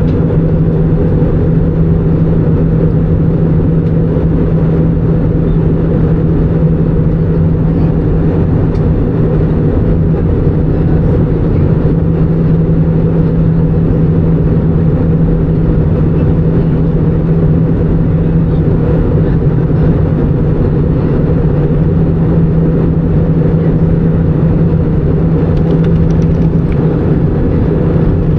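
Steady in-flight cabin noise of an Airbus A319: an even drone of engines and rushing air, with a constant low hum running through it.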